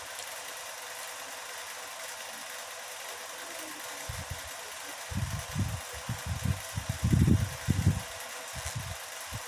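A steady background hiss, then in the second half a run of low, irregular muffled thumps and bumps, the kind of close-to-the-microphone noise that eating and handling plates and food make at a meal.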